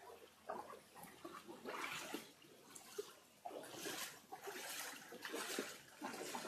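Faint floodwater sounds: irregular swells of splashing and trickling water, with small knocks in between.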